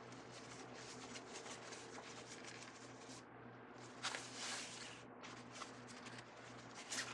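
Ribbon being handled and folded into bow loops, rustling and crinkling in uneven strokes, louder about four seconds in and again near the end, over a faint steady hum.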